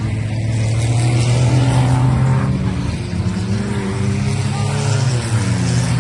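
Several bush race car engines running together under throttle, their pitches rising and falling as they rev and let off.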